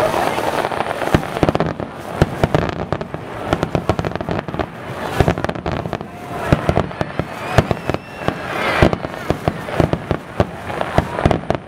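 Aerial firework shells bursting in a rapid, continuous barrage, many sharp bangs and crackles following one another with no pause.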